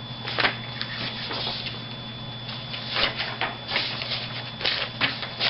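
Irregular clicks, taps and rustles of small objects being handled, over a steady low electrical hum.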